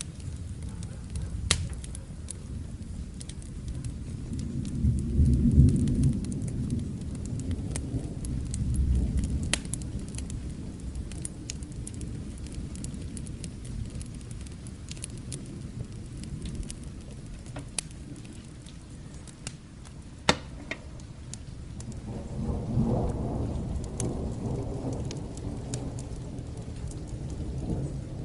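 Steady rain with a wood fire crackling and popping in irregular sharp snaps, one louder pop about two-thirds of the way through. Low rolls of distant thunder swell and fade twice, first a few seconds in and again later.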